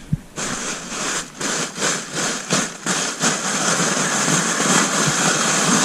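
Therm-a-Rest NeoAir XTherm inflatable sleeping mat crinkling and crackling as it is handled and pressed, the crunchy noise these mats are known for. Choppy at first, then a steady rustle from about three seconds in.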